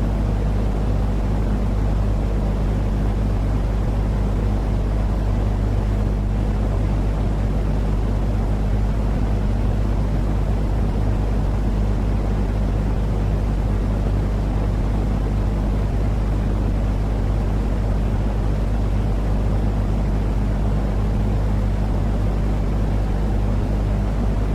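Steady sleep-aid noise track for babies: a constant low rumble with a droning hum, not changing at all.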